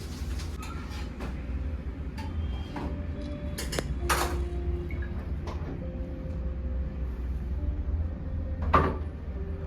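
Scattered knocks and light clinks of hard objects being handled, two of them louder, about four seconds in and near the end, some leaving a short ringing tone, over a steady low rumble.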